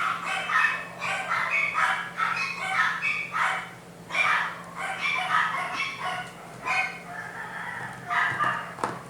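Animal calls: a rapid string of short, high-pitched cries, one after another, over a steady low hum.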